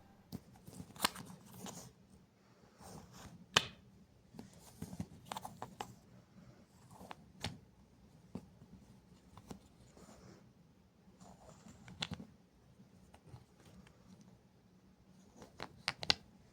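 Wooden letter pieces being handled and set down: scattered light clicks and taps, with a few sharper knocks and soft rustling between them.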